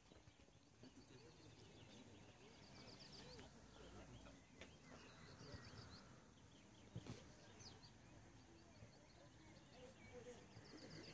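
Faint bird song: a short, rapid high trill, heard three times, over quiet outdoor background noise and faint distant voices.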